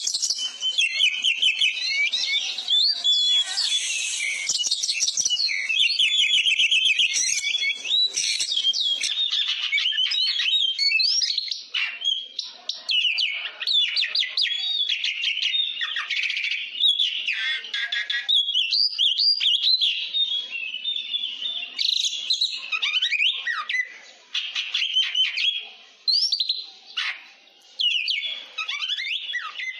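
Oriental magpie-robin (kacer) singing a fast, varied song full of whistles, trills and chattering notes, the kind of song with mimicked phrases that bird keepers use to train other birds. It sings continuously at first, then in phrases with short pauses in between.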